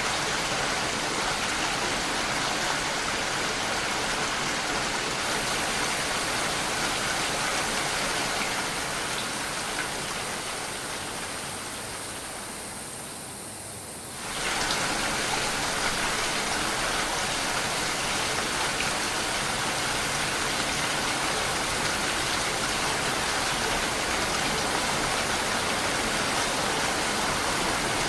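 Steady rain falling. Its sound fades gradually from about a third of the way through, then cuts back in abruptly at full strength about halfway.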